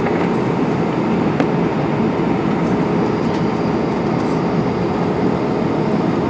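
Steady rumble and hiss inside the cabin of an Airbus A320 with its engines running before takeoff, with a faint constant hum.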